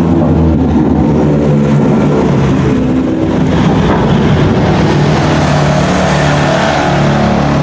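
GT race car engines running hard on track, a continuous loud engine note with a brief dip about three seconds in before another engine note builds.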